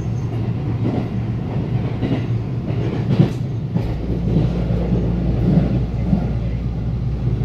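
Electric local train running at speed, heard from inside the passenger car: a steady rumble of wheels on rail with clickety-clack over the joints and a sharper clack about three seconds in.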